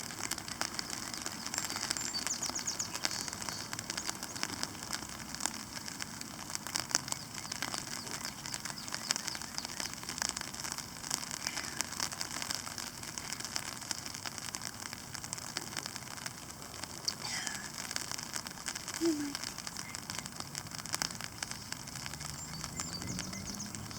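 Rain pattering on a tarp overhead, mixed with a small campfire crackling: a dense, irregular run of small ticks. A bird calls faintly now and then.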